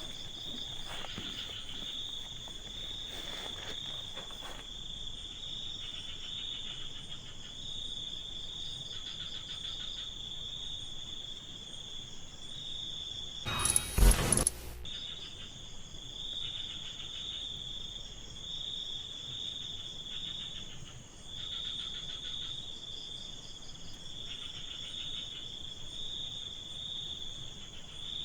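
Crickets or similar insects chirring in a steady high trill, with a second insect calling in pulsed bouts every couple of seconds. About halfway through there is one loud burst of noise close by, lasting about a second.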